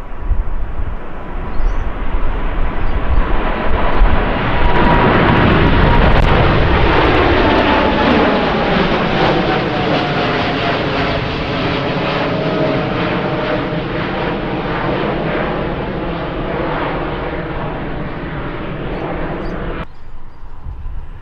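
Jet airliner passing close by: engine noise swells to its loudest about six seconds in, with a whine that drops slowly in pitch as the aircraft goes past, then eases away. The sound cuts off suddenly near the end.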